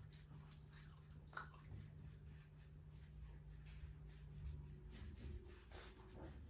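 Shiba Inu eating from its bowl: faint wet chewing and scattered small clicks over a low steady hum.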